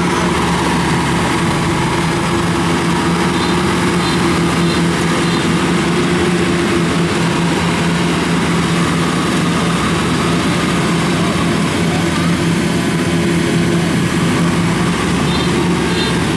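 Engine of a tracked rice combine harvester running steadily at a constant pitch.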